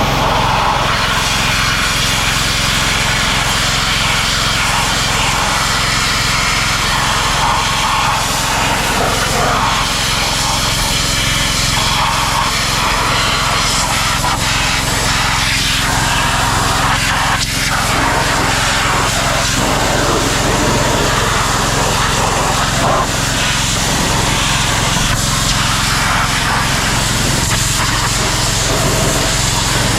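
High-pressure sprayer running steadily: a small engine's hum under the hiss of the water jet.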